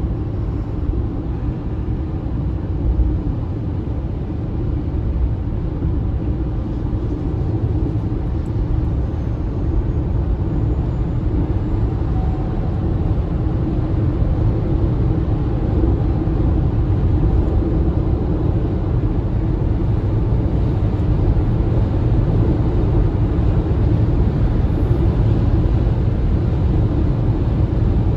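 Steady low rumble of road and tyre noise from a moving MG ZS EV, a battery-electric car with no engine sound, growing slightly louder as the drive goes on.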